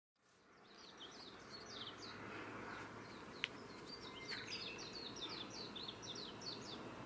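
Faint outdoor ambience fading in, with a small bird chirping in quick runs of short, high, falling notes over a steady low background noise. A single sharp click sounds about three and a half seconds in.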